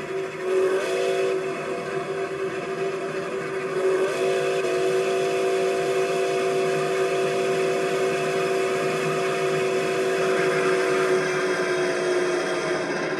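Nickel Plate Road 765, a 2-8-4 Berkshire steam locomotive, blowing a long blast on its chime steam whistle. The chord of several notes slides up and swells in about half a second in, swells again about four seconds in, and holds until it stops near the end, over a steady rushing noise from the moving train.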